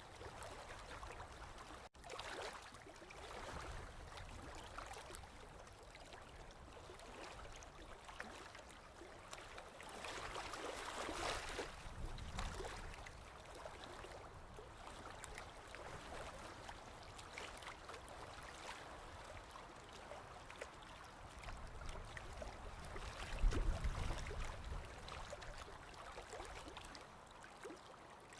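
Sea water lapping and washing, a steady watery rush with a louder swell of a wave about ten seconds in. A low thump a little past twenty seconds in is the loudest moment.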